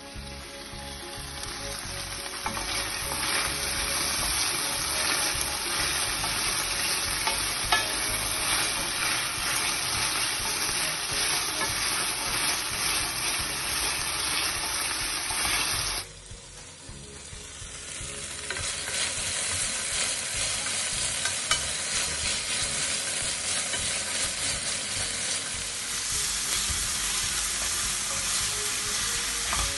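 Bell pepper strips sizzling and crackling as they fry in olive oil in a stainless steel pan, stirred with a wooden spatula. About halfway through the sizzle breaks off abruptly, then builds back up over a couple of seconds.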